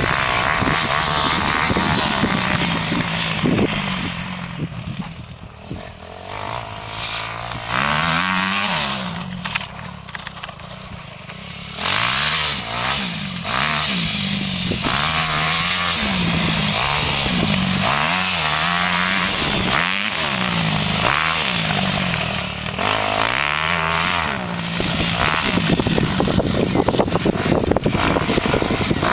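Suzuki RM-Z250 four-stroke single-cylinder motocross bike engine revving up and down over and over, its pitch climbing and dropping every second or so as the rider works the throttle through the gears. It fades for a few seconds, then comes back louder about twelve seconds in.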